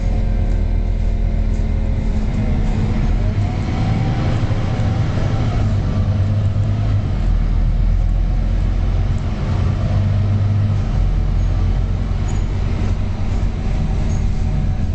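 Scania K230UB single-deck bus's diesel engine running under way, its low engine note rising and falling a few times as the bus pulls and eases off.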